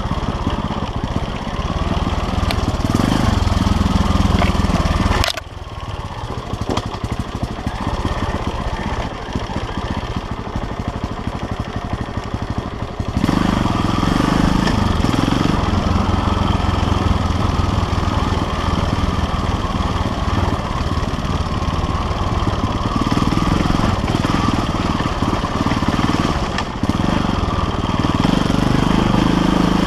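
KTM LC4 350 single-cylinder four-stroke enduro engine being ridden off-road, the throttle opening and closing. It drops back to a quieter, lighter run about five seconds in, then pulls harder and louder again from about thirteen seconds.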